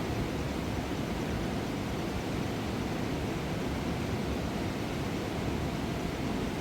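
Mountain river rushing over rocks: a steady, even roar of water, heaviest in the low range.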